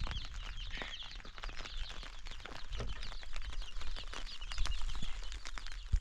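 Birds chirping in quick, rapid high notes, with scattered sharp clicks and knocks and a low rumble underneath.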